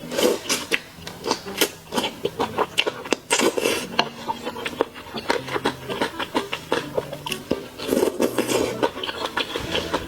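Close-miked eating sounds: a dense, irregular run of wet chewing and smacking clicks, with utensils clicking against a dish.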